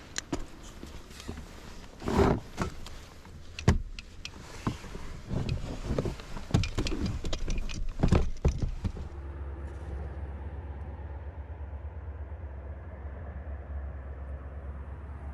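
Handling knocks and clatter, then from about nine seconds in a vehicle's steady low running rumble, muffled as if heard inside the cabin.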